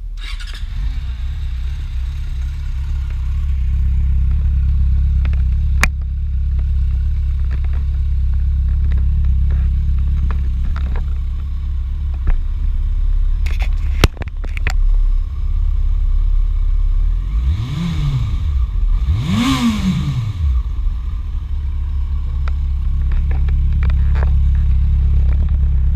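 Yamaha FZ6 motorcycle's inline-four engine idling steadily through its stock exhaust, with two quick throttle blips about two-thirds of the way in, the second revving higher. A few sharp clicks or knocks cut in over the idle.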